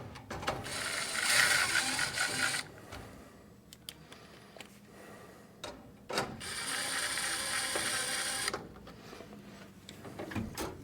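A screwdriver driving small Phillips screws into the furnace's sheet-metal housing, in two bursts of about two seconds each.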